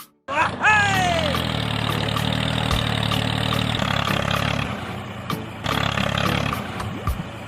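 An engine starting, with a falling whine in the first second, then idling steadily.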